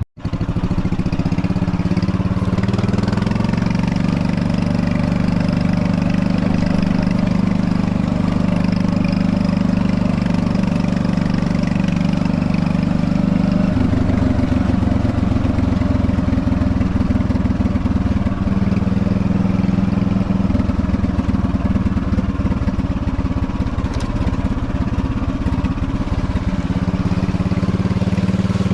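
Predator 301 single-cylinder four-stroke engine running steadily on a golf cart, its pitch rising a little in the first few seconds and its sound turning rougher about halfway through.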